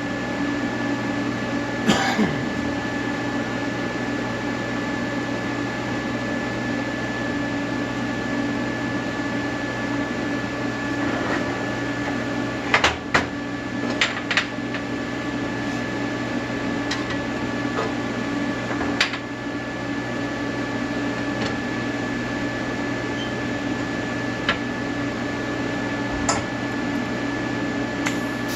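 Welding arc buzzing steadily, with a few short sharp clicks here and there.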